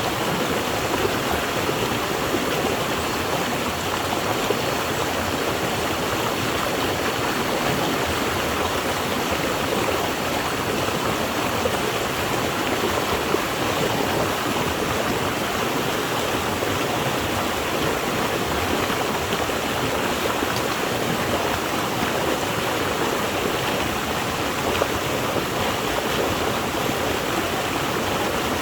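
Flowing stream water rushing and splashing steadily, with no breaks or changes.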